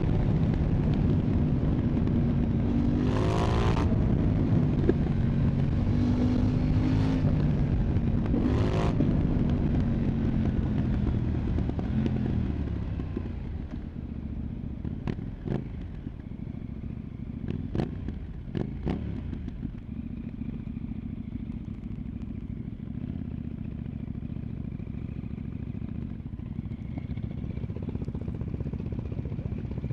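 KTM Duke 990 parallel-twin engine through an Arrow Pro Race exhaust, running hard with short rising revs. Just under halfway through it drops to a quieter, steady low running note, with a few sharp clicks soon after.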